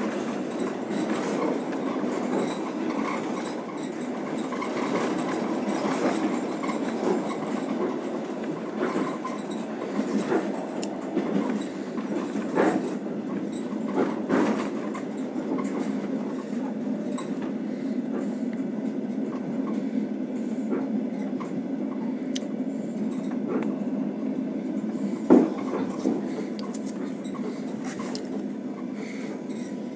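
Passenger train running steadily, heard from inside the carriage: an even rumble of wheels on the rails with scattered sharp clicks, one louder knock near the end.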